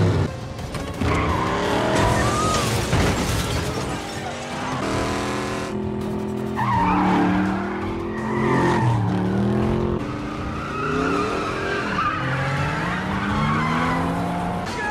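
Several high-performance car engines revving hard and climbing through the gears, with tyres squealing as the cars slide through turns. It is a film car-chase soundtrack with music mixed in underneath.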